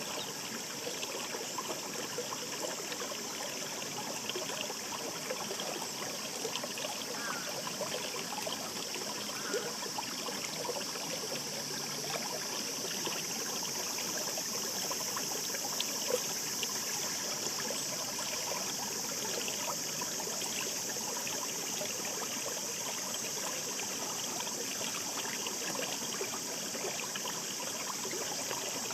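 Shallow mountain stream babbling over stones: a steady rush of water with many small splashes and gurgles.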